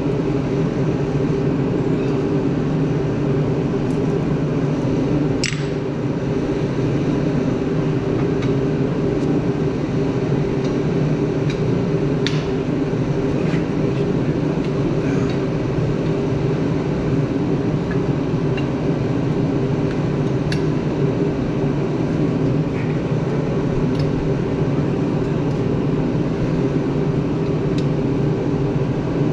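Steady machine hum with a constant pitch throughout, with a few sharp, light metallic clinks scattered through it, as of chain or steel parts being handled.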